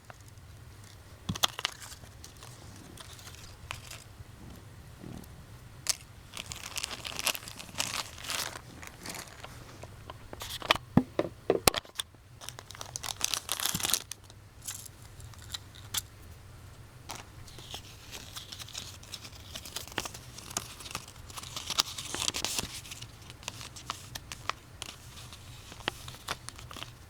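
Plastic being handled close up: crinkling and rustling in irregular spells, with scattered sharp clicks.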